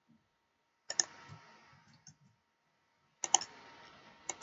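Computer mouse button clicking: a quick pair of clicks about a second in, another pair just after three seconds, and a single click near the end.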